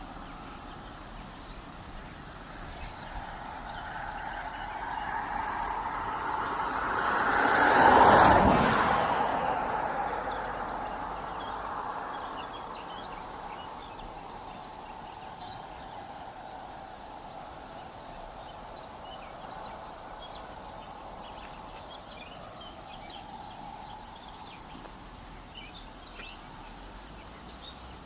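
A vehicle passes by: its noise swells over a few seconds, is loudest about eight seconds in, then fades away. Faint short chirps, like small birds, follow in the background.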